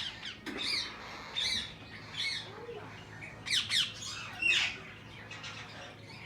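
Parrots squawking: a string of short, harsh, high calls that sweep down in pitch, loudest around the middle.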